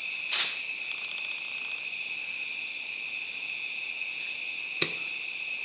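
Insects with a steady high-pitched drone and bursts of rapid chirping, broken by two sharp knocks, one just after the start and one near the end.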